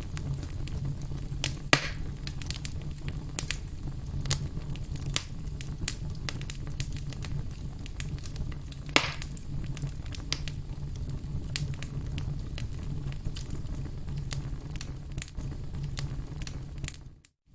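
Firewood burning: scattered crackles and small pops of the wood over a steady low rumble of the flames, with two louder pops, one about two seconds in and one near the middle. The sound drops out briefly just before the end.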